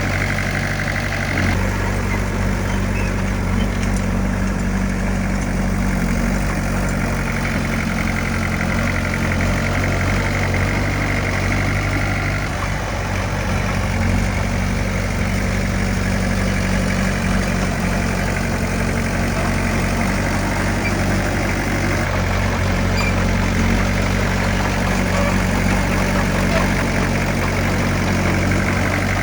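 Diesel engine of heavy earthmoving machinery running steadily at a constant pitch, with slight changes in its note about a second in and again near the middle.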